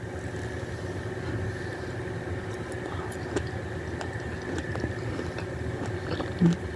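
A steady mechanical hum with a constant tone running through it. From about two and a half seconds in come scattered soft clicks and ticks, which fit a person biting and chewing a strawberry.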